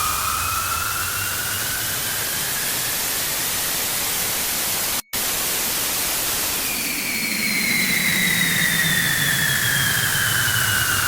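Loud harsh static noise with a slowly rising whistle-like tone that fades out in the first few seconds. About five seconds in the sound cuts to silence for a split second, and near seven seconds a slowly falling tone comes in over the static.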